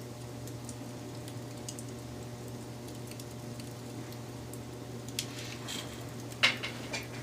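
Wood fire burning with a steady low rumble and faint crackling, then a few sharper pops and snaps of burning wood near the end, the loudest about six and a half seconds in.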